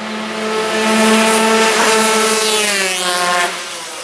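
A racing motorcycle passes at full speed. Its high engine note holds steady, then drops in pitch as it goes by, and cuts off abruptly near the end.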